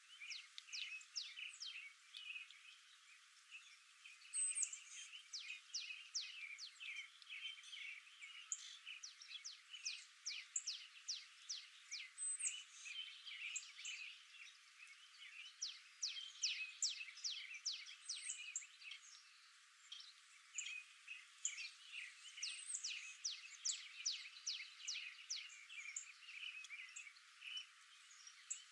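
Several small birds chirping, many quick downward-sweeping notes crowding over one another with only short lulls.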